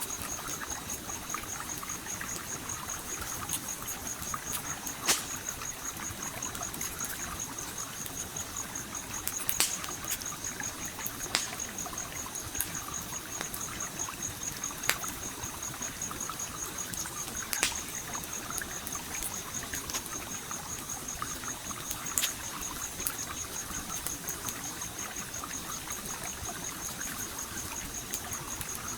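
Stream water trickling steadily, with a campfire crackling and giving off sharp pops every few seconds. A cricket-like insect trills steadily in the background.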